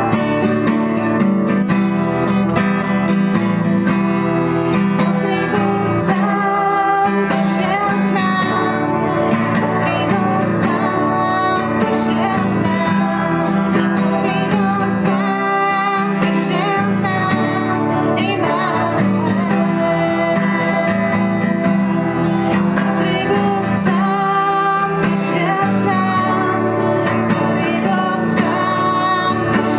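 Worship song sung with acoustic guitar accompaniment, a female voice among the singers.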